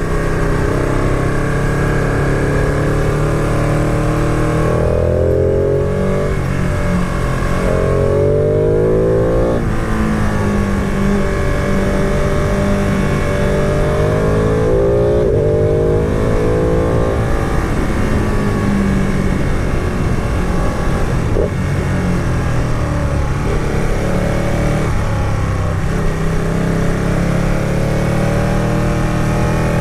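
Motorcycle engine heard from on the bike while riding, its pitch climbing under acceleration and dropping back several times as it shifts gear and eases off.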